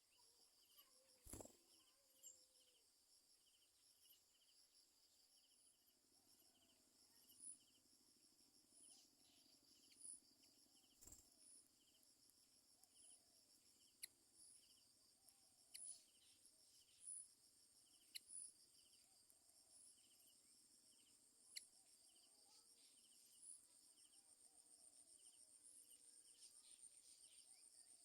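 Faint outdoor insect chorus: crickets chirping in a steady, high, pulsing rhythm, with a few sharp clicks scattered through.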